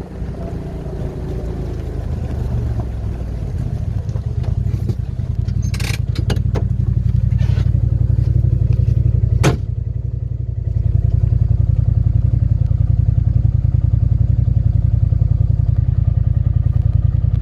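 A vehicle's engine running as it drives, growing louder over the first several seconds, easing off briefly about ten seconds in, then steady again. A few sharp clicks or knocks sound around the middle.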